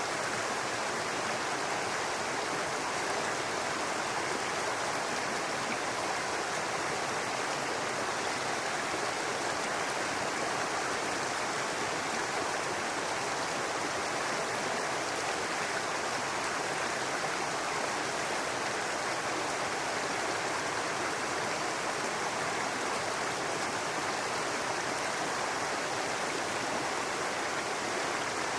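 A small brook babbling and running over stones, a steady even rush of water with no change in level.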